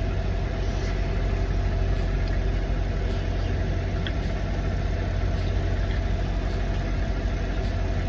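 Semi truck's diesel engine idling with a steady low hum, heard from inside the cab.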